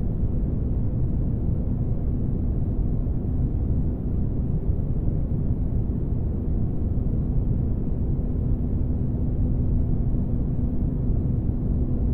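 Spaceship ambience: a steady deep rumble with a faint steady hum over it, made as sleep background noise.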